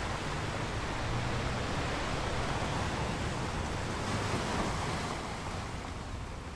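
Ocean waves washing in as a steady rushing surf noise, swelling slightly about four seconds in and easing a little near the end.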